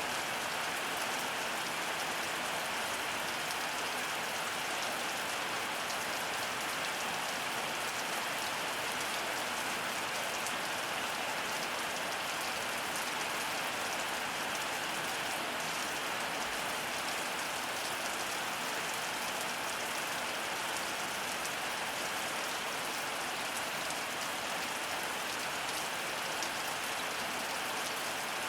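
Heavy storm rain falling steadily: an even, unbroken hiss of dense raindrops on surfaces.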